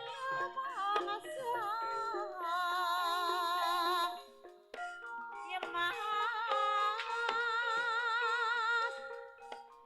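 Ebeg gamelan music: a long wavering melody with heavy vibrato over ringing metallophone notes, in phrases with brief breaks about half a second and four and a half seconds in.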